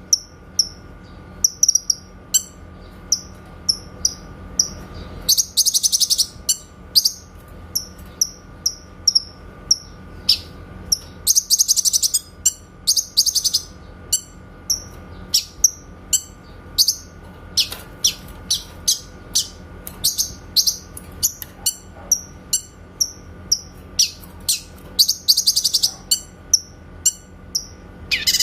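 Cucak kinoy singing: a run of short, sharp, high 'tembakan' notes about one or two a second, broken now and then by rapid chattering trills lasting about a second.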